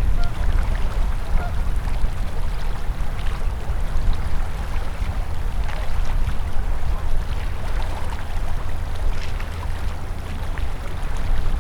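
River water flowing in a steady rush, with a heavy low rumble underneath and small splashes and gurgles flecking through.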